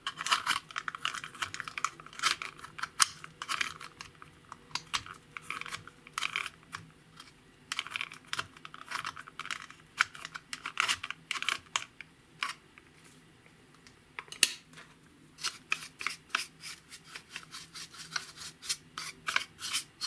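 Clear slime being worked by hand, giving off fast, irregular sticky clicks and pops in flurries, with a short lull about two thirds of the way through.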